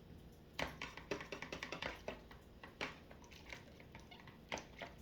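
Dishes clinking and clattering as they are washed by hand in a basin: a quick flurry of clinks in the first couple of seconds, then scattered ones, with a sharper single clink near the end.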